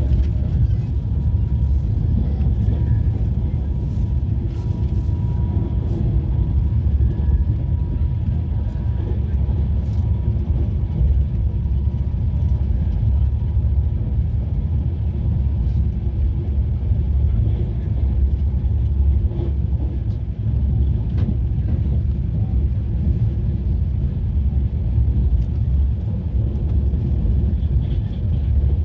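Passenger train running, a steady, unbroken low rumble.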